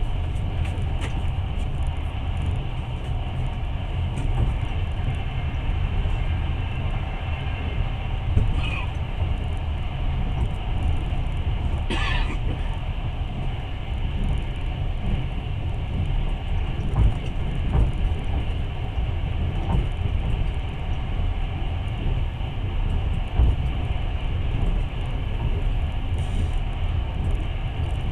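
Passenger train running along the track, heard from on board a carriage: a steady low rumble of wheels on rails, with a couple of brief sharper noises about a third of the way in.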